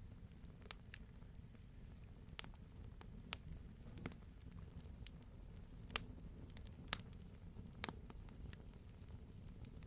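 Wood campfire crackling: sharp pops of burning logs every second or so, at irregular intervals, over a low, steady rumble of the flames.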